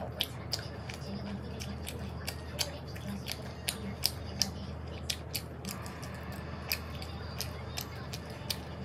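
Close-miked mouth sounds of someone chewing sweet potato pizza: a string of sharp, irregular wet clicks, several a second, over a steady low hum.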